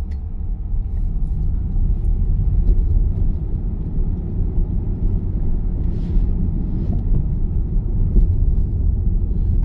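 Steady low rumble of road and tyre noise inside a moving car's cabin, building slightly over the first couple of seconds.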